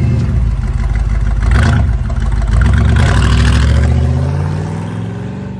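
Twin-turbo 1926 Ford T-bucket hot rod's engine revving, then accelerating away, its pitch climbing as it fades out.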